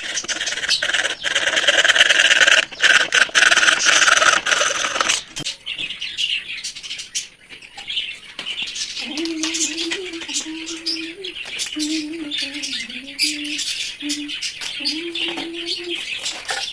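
Birds chirping and chattering, densest in the first five seconds, then thinner. A low, wavering tone comes and goes in the second half.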